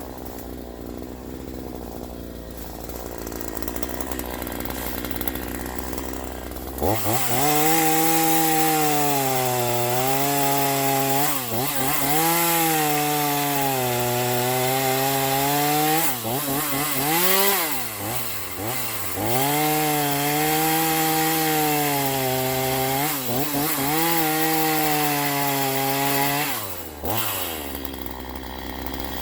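Troy-Bilt TB4218 42cc two-stroke chainsaw idling, then throttled up to high revs for about twenty seconds with its pitch wavering. The revs dip and pick up again midway, then fall back to idle near the end.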